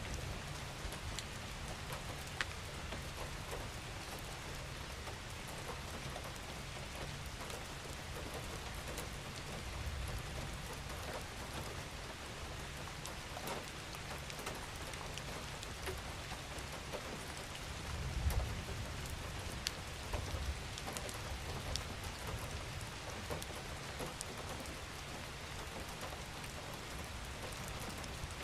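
Steady rain falling: a continuous hiss with scattered individual drops ticking. A deeper low rumble swells briefly about two-thirds of the way through.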